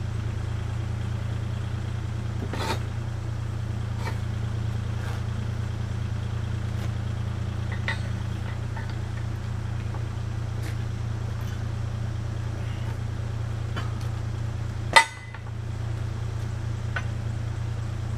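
Kubota KX040-4 mini excavator's diesel engine idling steadily, with scattered light metal clinks from the ripper attachment being lined up on the arm and one sharp clank about 15 seconds in.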